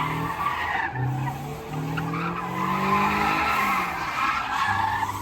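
A car spinning its tyres at a car meet: a long, wavering tyre squeal over the engine revving up and down underneath.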